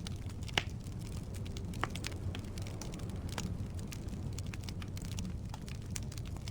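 Firewood burning in a fireplace: a steady low rumble of the flames with irregular crackles and pops, the sharpest pop about half a second in.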